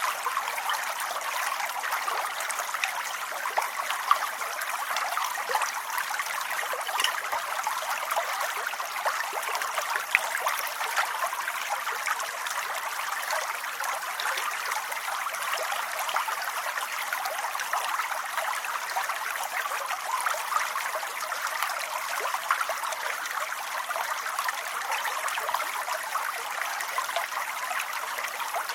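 Steady rain: an even hiss of countless small drop ticks, with no low rumble and no change in strength.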